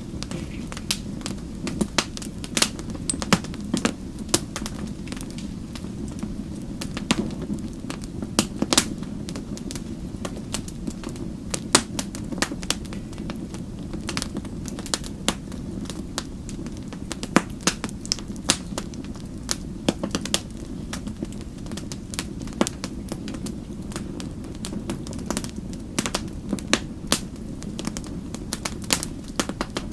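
Wood fire burning in a fireplace, crackling and popping: many sharp, irregular pops a few times a second over a steady low rumble of the flames.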